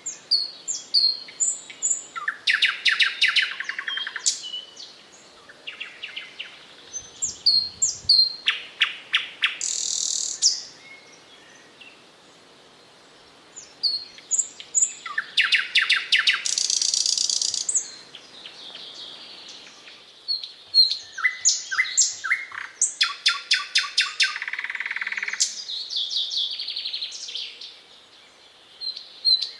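Thrush nightingale singing: phrases of fast repeated clicks and whistled notes, broken by short pauses.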